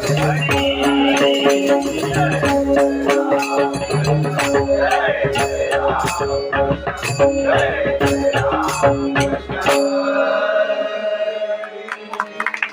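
Traditional bhajan accompaniment: a harmonium holds steady notes over rhythmic pakhawaj drum strokes and sharp clashes of small hand cymbals. About ten seconds in, the drum and cymbals stop and the harmonium's notes fade out, closing the piece.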